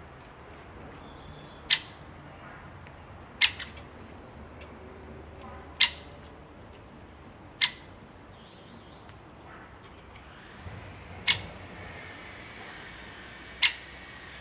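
A bird giving short, sharp single calls, six in all, one every two seconds or so, over a faint steady background.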